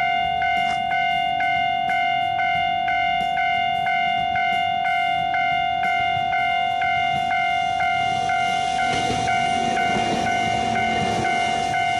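Railway level-crossing alarm ringing in an even repeating beat, about two strokes a second, over a steady tone. From about eight and a half seconds in, a Gakunan Railway electric train rumbles past the crossing.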